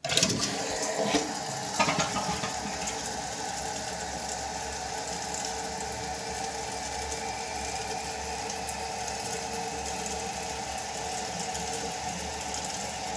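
2014 Kohler Wellworth toilet flushing and its tank refilling: a sudden rush of water at the start, then the steady hiss of water running in through the fill valve. The refill is quick.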